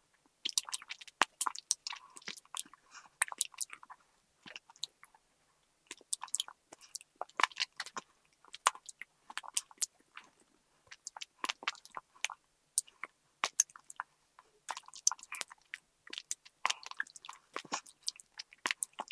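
Close-miked chewing and crunching of sugary straw candy bitten out of thin plastic straws, with many sharp, irregular crunches and clicks and a few short pauses.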